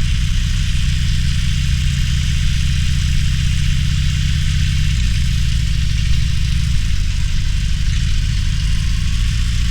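Harley-Davidson Roadster's V-twin engine running at low, steady revs, its note shifting slightly about halfway through, with a steady hiss above it.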